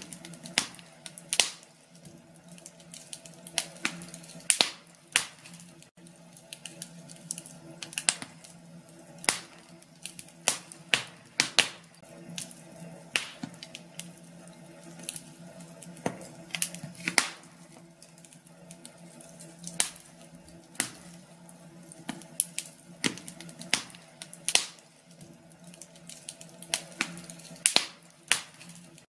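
Fire crackling in a fireplace: irregular sharp pops and snaps, some in quick clusters and some spaced out, over a faint steady hum.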